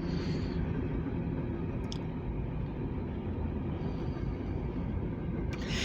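Freight train cars rolling past in a steady low rumble.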